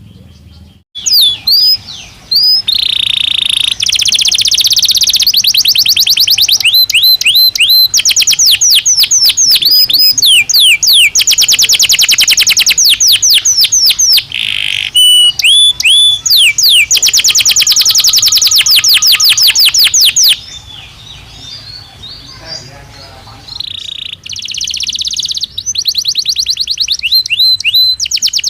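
Belgian canary singing a long, loud song of rapid trills and quick sweeping notes. It goes quiet for a few seconds after about twenty seconds, then takes up the song again near the end.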